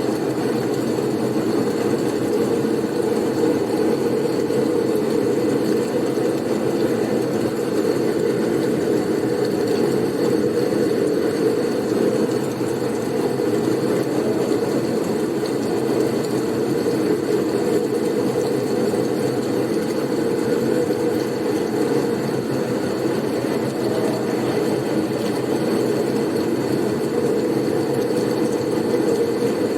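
Blizzard wind soundscape: a steady, low rushing wind noise that holds even throughout, with a faint steady high tone above it.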